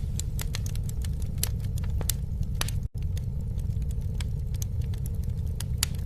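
Campfire burning with a steady low rumble of flames and frequent sharp, irregular crackles and pops. The sound cuts out for an instant about three seconds in.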